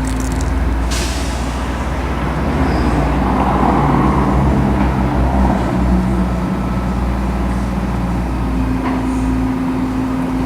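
Indian 648 Big Base Scout motorcycle's V-twin engine running. Its pitch rises somewhat from about three seconds in and settles back near the end.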